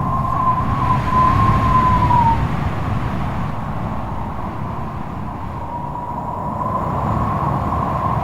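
Strong wind blowing: a deep, gusty rumble with a high, wavering whistle that fades out a couple of seconds in and comes back in the last few seconds.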